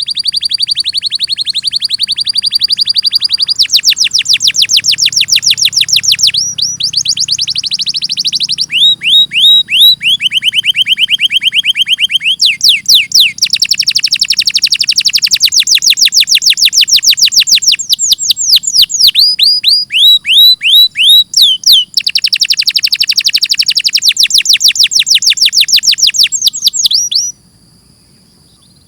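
Domestic canary singing a long song of rapid trills: runs of quick identical repeated notes, each run switching to a new speed and pitch every second or two. The song breaks off near the end.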